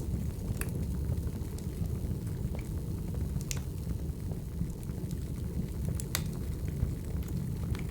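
Burning firewood crackling: a steady low rumble with scattered sharp pops, the loudest about six seconds in.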